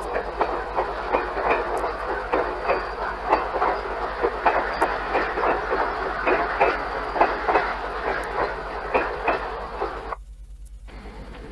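Commuter train passenger coaches rolling past close by, their wheels clicking over rail joints in a steady clickety-clack over the rumble of the running gear. The sound drops out abruptly about ten seconds in, leaving only a faint background.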